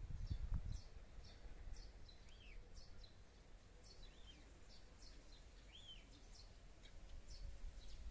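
Faint birdsong: repeated short, high, downward-sweeping chirps, a couple each second, with a few lower arched notes between them. A brief low rumble in the first second.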